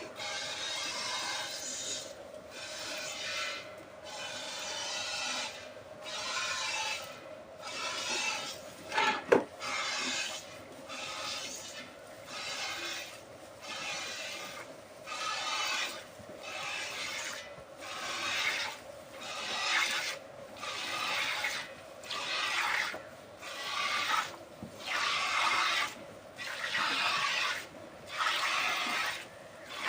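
A cow being milked: streams of milk hissing into a pail in regular bursts, about one a second. A single sharp knock about nine seconds in.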